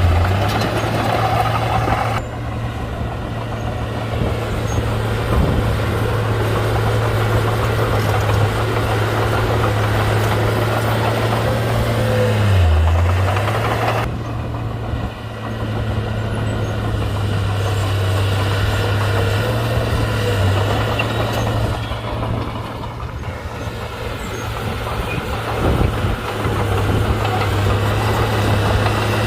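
Komatsu D31-P crawler bulldozer's diesel engine running steadily, its pitch dipping briefly about halfway through and then picking back up.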